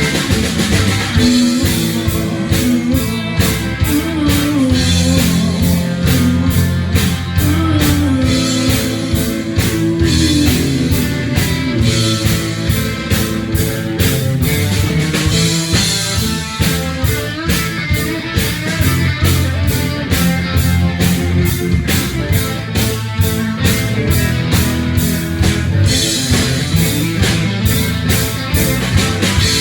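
Live rock band playing an instrumental passage with no singing: guitar playing sliding, bending notes over a drum kit keeping a steady beat.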